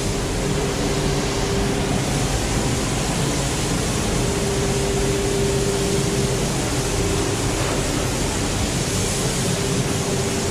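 Steady rush of air in a paint booth while an engine is being spray-painted, with a steady hum underneath.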